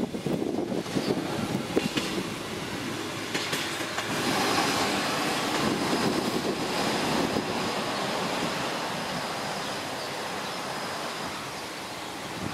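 SA106 diesel multiple unit passing over a level crossing, its wheels clattering over the crossing's rail joints. The rumble then runs on steadily and slowly eases off.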